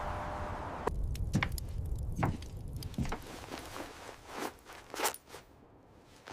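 Footsteps in snow, short irregular steps about one a second, fading near the end; a steady wind-like noise stops about a second in.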